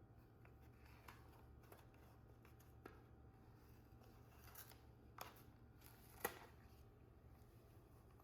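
Near silence: quiet room tone with a few faint clicks and rustles of small handling sounds, the sharpest click a little past six seconds in.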